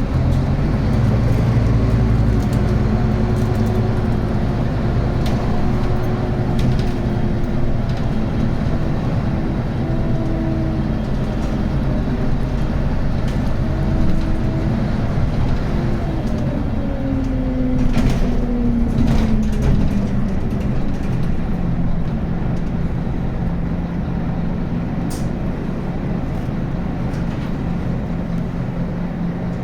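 Scania N280UB city bus running, its engine and ZF Ecomat automatic gearbox giving a steady drone with a whine on top. The whine falls in pitch about two-thirds of the way through, after which a steadier low drone remains.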